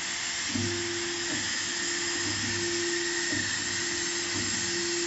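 Hydraulic press machine running: a steady mechanical hiss with a constant hum, and faint low pulses every second or so.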